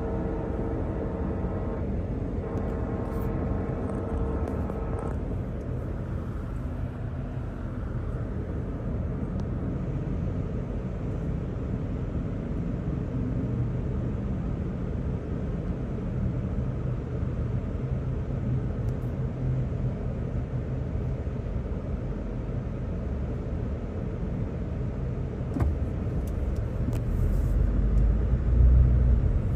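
Freight locomotive horn, two sustained blasts, the second ending about five seconds in, then the steady low rumble of a double-stack freight train rolling through the grade crossing, heard from inside a stopped car. The low rumble grows louder near the end.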